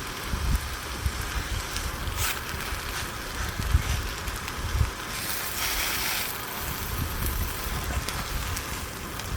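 Wind buffeting the microphone in irregular low gusts, over a steady hiss.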